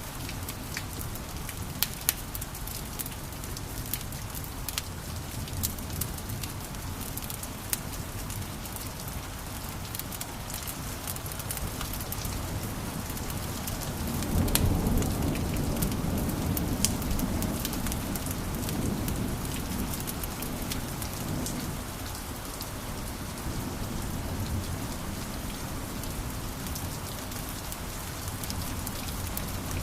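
Wood fire crackling in a fireplace, with a steady hiss and many sharp pops. About halfway through, a louder low rumble of flame swells for several seconds, then settles.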